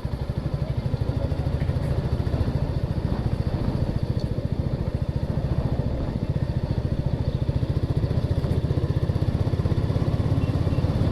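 Motorcycle engine running at a steady speed, its firing pulses making a fast, even beat.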